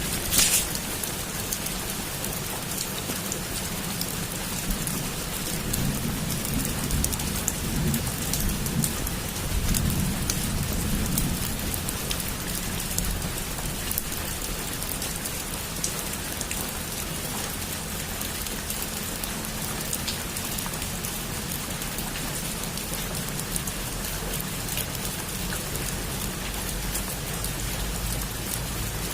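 Heavy rain pouring on a roof, a steady hiss of dense drops. A sharp crack comes right at the start, and a low rumble of thunder swells and fades between about a fifth and two fifths of the way in.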